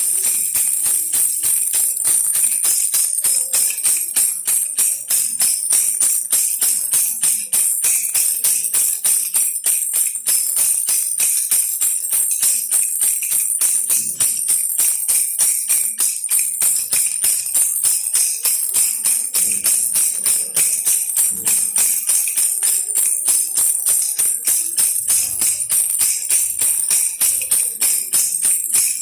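A baby rattle shaken over and over in a quick, even rhythm of about three shakes a second, a bright, high rattling that keeps on without a break.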